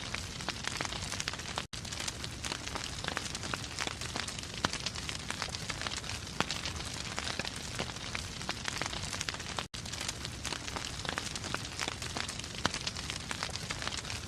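Fire in a fireplace crackling steadily, a dense run of sharp pops and snaps over a low hiss, broken by two very short gaps of silence.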